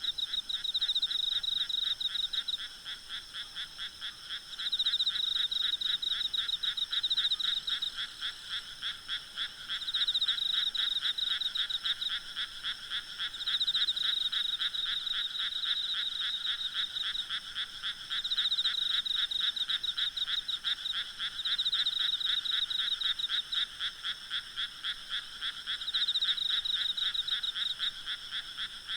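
Frog chorus: fast, pulsing croaking calls that swell into louder bouts every few seconds, over a fainter steady insect trill.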